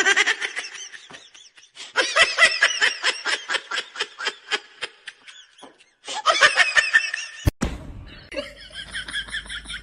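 A person laughing in rapid runs of short, high-pitched bursts, with a sudden cut a little past halfway.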